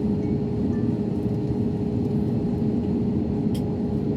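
Airbus A321neo engines running at low power: a steady low rumble with a constant hum tone over it.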